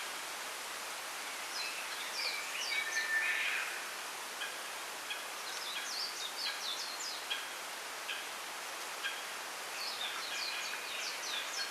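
Small songbirds chirping in three bursts of quick high notes, with single short calls between them, over a steady rustling hiss of wind in bamboo leaves.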